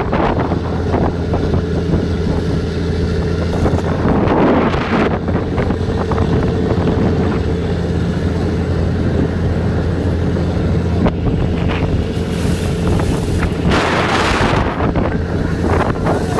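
Boat engine running at a steady pitch, with wind buffeting the microphone in gusts, once about four seconds in and again near the end.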